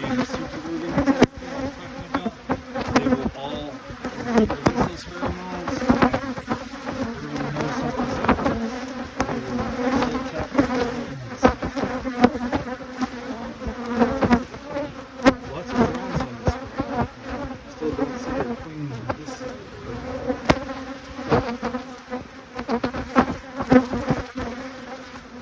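Honeybees of an opened hive buzzing in a dense, steady hum, with a few sharp clicks scattered through it.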